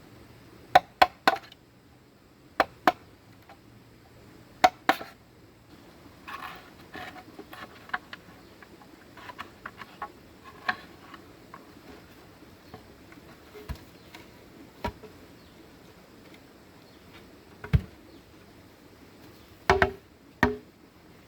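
Sharp knocks of a tool striking bamboo, in quick groups of two or three, with quieter taps and clatter in between.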